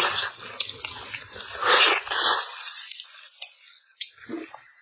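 Close-miked wet chewing and lip-smacking of soft, fall-apart braised pork elbow, loudest at the start and again around two seconds in, then quieter with a short smack near the end.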